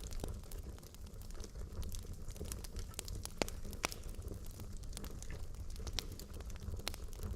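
Wood logs burning in a fireplace, crackling with a steady low rumble of flame and irregular sharp pops, a couple of louder ones past the middle.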